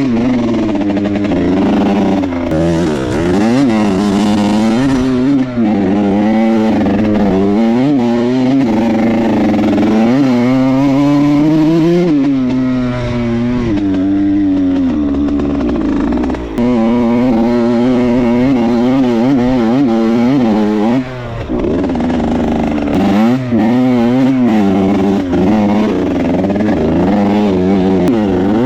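Yamaha YZ80 two-stroke dirt bike engine being ridden hard, its pitch climbing and dropping again and again as the rider revs through the gears, with a few brief breaks in the sound.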